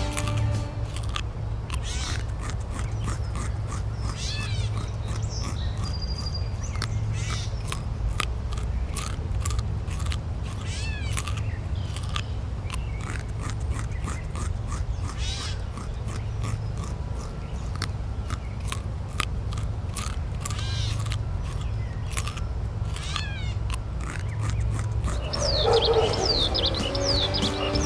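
Outdoor ambience with a steady low rumble, scattered clicks and short high chirps of small birds. A dog starts yipping a couple of seconds before the end.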